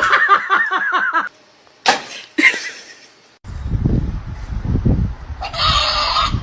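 Chickens calling: a quick run of short clucking notes, about eight a second, for the first second. Then, over a steady low rumble, a rooster starts to crow near the end.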